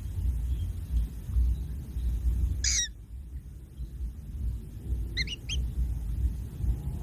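A bird giving a quick run of high, pitch-falling calls about two and a half seconds in, then two or three short calls about five seconds in, over a steady low rumble.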